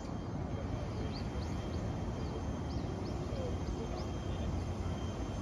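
Small birds chirping with short, high, rising calls, several a second, thinning out after about four seconds, over a steady low rumble.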